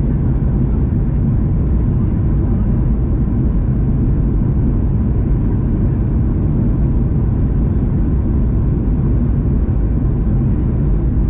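Airplane cabin noise: the steady low rumble of engines and airflow heard from a passenger seat in flight, with a faint steady whine.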